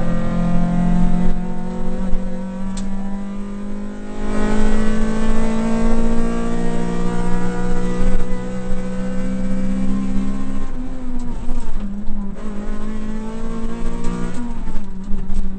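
Honda rally car's engine heard from inside the cabin, pulling hard with its pitch climbing steadily through each gear. There are upshifts about four seconds in and again near eleven seconds, then a brief lift off the throttle around twelve seconds before it pulls again.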